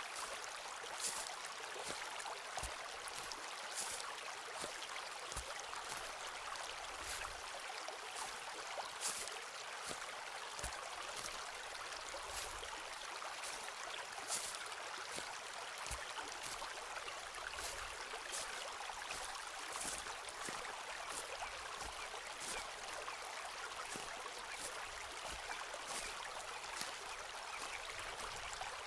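Footsteps walking along a forest path at a steady pace, a crisp step about once a second, over the steady rush of a nearby stream.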